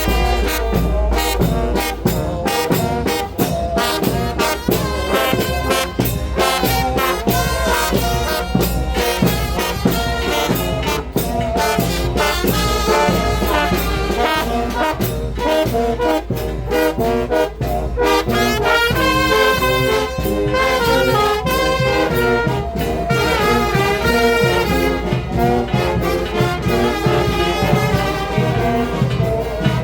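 A brass band plays in the street: a brass melody over a steady drum beat.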